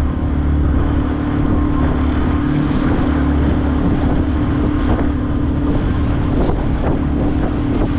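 A skiff's outboard motor running steadily under way, a constant hum over a low rumble, with wind buffeting the microphone.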